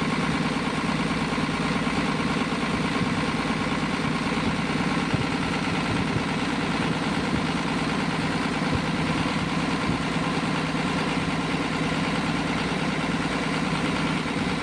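Diesel engine idling steadily at an even speed.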